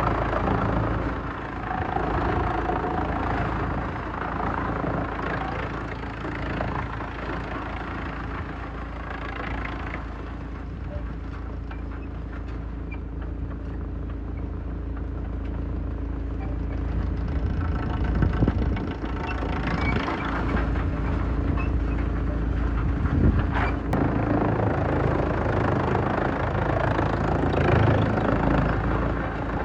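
Heavy-duty industrial wood shredder running under load with a steady, heavy engine drone. Louder, noisier surges come several times as wood is fed in and ground, most strongly about two-thirds of the way through and again near the end.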